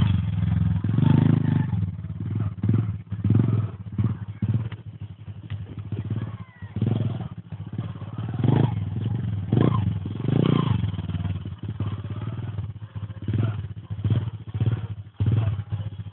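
Small 125 minimoto dirt bike engine running at low revs, surging up and down with uneven throttle, with scattered knocks and clatter.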